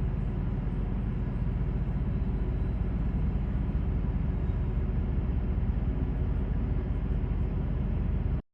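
Steady low engine rumble of a car ferry underway, cutting off abruptly near the end.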